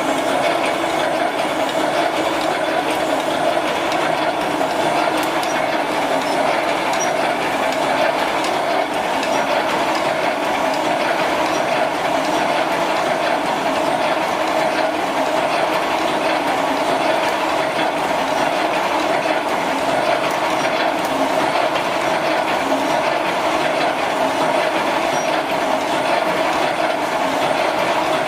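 Automatic welded wire mesh machine running: a steady mechanical clatter over a constant hum.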